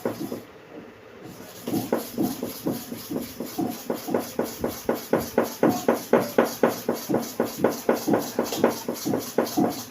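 Hair-clipper blade being rubbed back and forth by hand on a hard manual sharpening stone, an even rhythm of about three to four strokes a second that starts about a second and a half in and grows stronger partway through.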